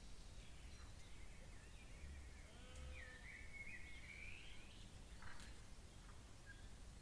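Faint calls of night birds: a few thin whistled notes, then a wavering, warbling call that climbs in pitch from about three seconds in, over a low steady background noise.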